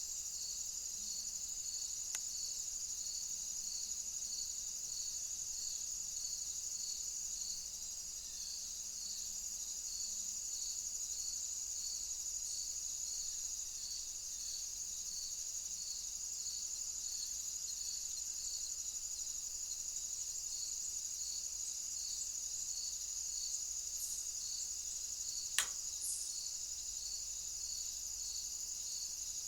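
Crickets and other insects calling: a steady high shrill with a regular chirp repeating about every half second, and a single sharp click near the end.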